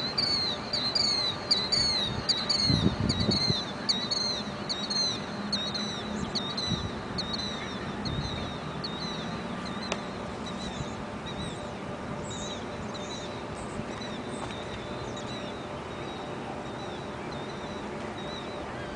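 A bird chirping: a rapid run of short, high, falling chirps, about two or three a second, that fades out after about ten seconds. A low steady hum lies underneath.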